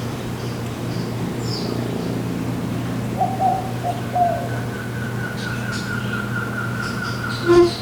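Jungle birds calling over a steady low hum: a low, repeated call about three seconds in, then a long rapid trill that runs until near the end, with faint high chirps. Near the end comes one short, loud, low note, the loudest sound here.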